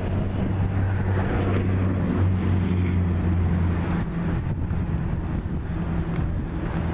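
A steady low machine hum with a constant rumbling noise under it.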